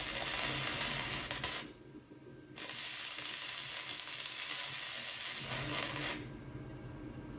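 Wire-feed (MIG) welder arc crackling and sizzling as it lays weld on steel wrenches, in two runs: one of about two seconds, then after a short pause a longer one of about three and a half seconds.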